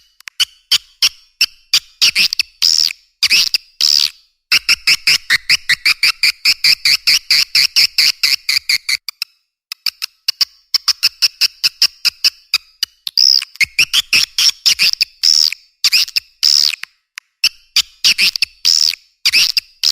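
Swiftlet call recording: rapid trains of sharp, clicking chirps with a twittering tone, broken by short pauses, such as a swiftlet farmer's lure call.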